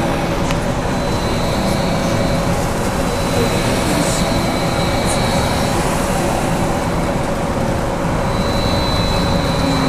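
BKM 43300D trolleybus under way, heard from inside the passenger cabin. Steady rolling and road noise carries a constant hum and a high electric whine that fades out and back in a few times. There are occasional light rattles.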